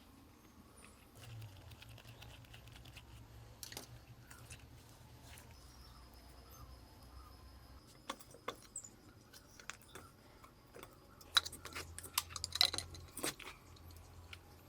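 Scattered light clicks and clinks of small metal parts and hand tools being handled, growing busier in the second half with a louder cluster of clicks about 11 to 13 seconds in.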